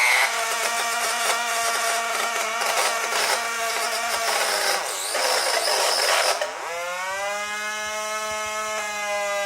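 Infrared remote-control signal turned into sound: a harsh, noisy buzz for about six seconds. It then sweeps up in pitch into a cleaner, steady buzzing tone that holds.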